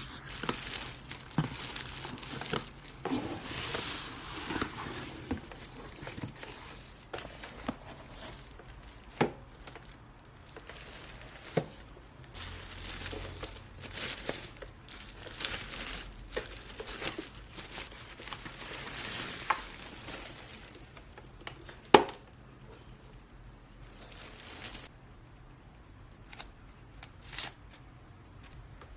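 Crinkling and rustling handling noises with scattered light clicks and knocks, and one sharp knock about three quarters of the way through; quieter toward the end.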